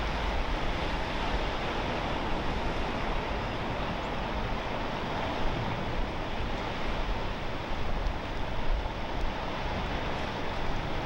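Steady coastal ambience of wind and ocean surf: an even rushing noise with a low rumble underneath.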